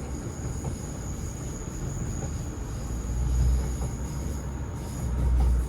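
British Rail Class 156 diesel multiple unit running, heard from on board: a steady low rumble of engine and wheels that swells louder twice, about three and five seconds in.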